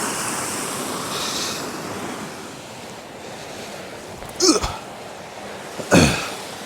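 Rushing water of a small creek falls, fading over the first few seconds, then two short, sharp sounds about a second and a half apart near the end.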